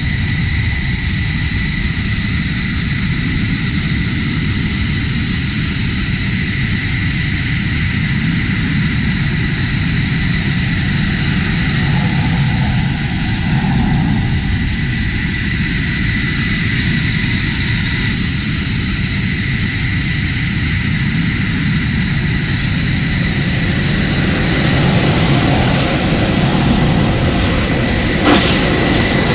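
F-16 fighter jet's turbofan engine running loud and steady, with a constant high whine over the noise. Over the last few seconds a high whine rises in pitch.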